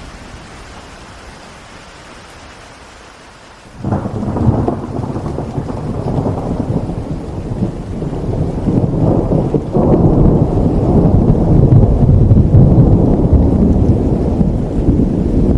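Steady rain falling, then about four seconds in a sudden clap of thunder that rolls into a long, low rumble over the rain, swelling again a few seconds later and still going at the end.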